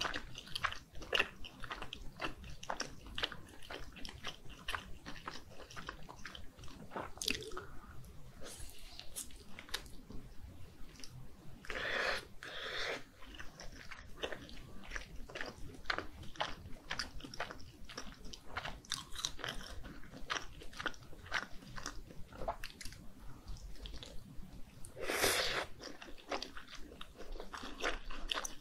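Close-miked eating of spicy red fish cake on skewers: soft bites and wet, sticky chewing with a steady stream of small mouth clicks. Two louder, longer wet mouthfuls come about twelve seconds in and near the end.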